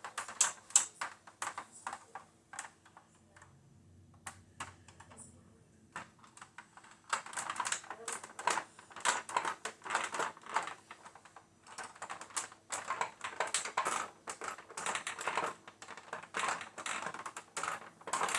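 Rapid small clicks, taps and rubbing of hard plastic parts as the jet is handled and wiped down with a rag. They thin out to near quiet about three seconds in, then pick up again densely about six seconds in.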